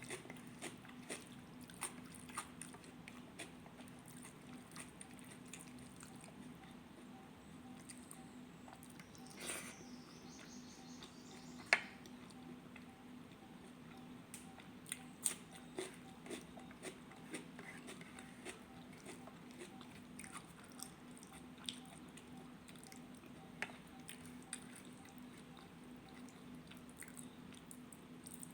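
A person eating rajma and rice: quiet chewing with many small scattered clicks and smacks, one sharper click about twelve seconds in, over a steady low hum.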